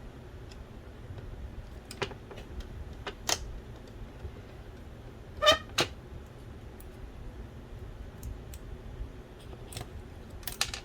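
Small plastic and metal parts of a DVD drive clicking and knocking as they are handled and taken apart, a few scattered clicks with a short rattling clink about halfway through and a quick pair of clicks near the end.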